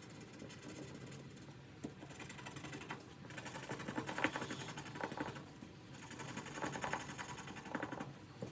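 Paper banknotes being handled and shuffled: a busy rustle of bills with many quick light ticks, getting busier about three seconds in.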